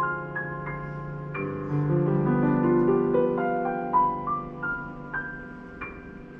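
Solo piano playing a slow, gentle prelude: single notes and soft chords rung out and left to decay, growing quieter near the end.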